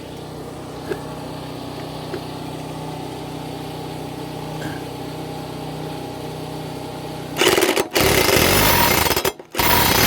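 A steady low hum, then about seven seconds in a power impact wrench hammers on the mower blade nut in two loud bursts with a brief pause between them.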